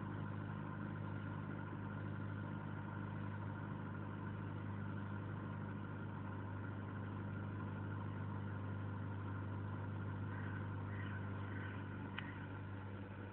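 Mazda 323F's 1.8 L BP inline-four idling steadily, about a minute after a cold start at −4 °C. A few faint short high chirps and a single click come near the end.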